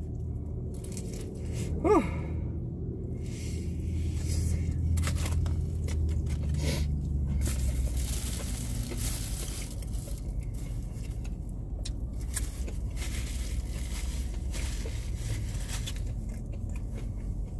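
Close-up eating sounds: crispy fried chicken being bitten and chewed, with crunching, wet mouth clicks and a short hum of the voice about two seconds in. Paper rustles about eight seconds in, over a steady low hum.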